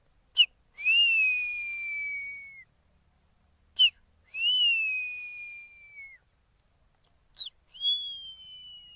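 A man mimicking a hawk's call by whistling: three calls, each a short sharp note followed by a long, high whistle that rises briefly and then slowly falls.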